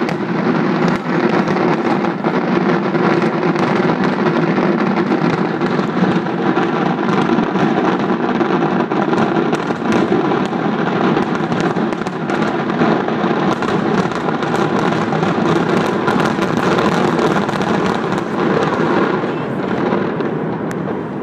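Fireworks display with shells bursting in rapid, overlapping succession: a continuous barrage of booms and crackling that does not let up.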